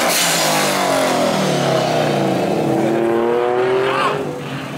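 A car engine revving up, its pitch climbing steadily for a couple of seconds, with a loud rush of noise at the start.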